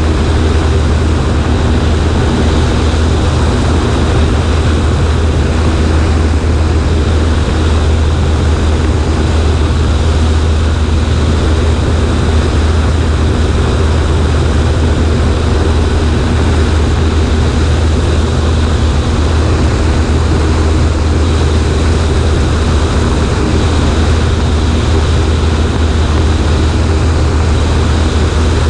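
Cessna 140A's small piston engine and propeller running steadily, a loud even drone with a low hum under a broad rush of air.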